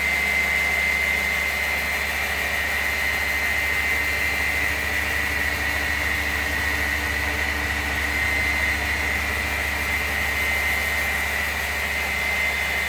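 Electric polisher running steadily with a diamond grit pad on a marble top, a constant whine over a low hum.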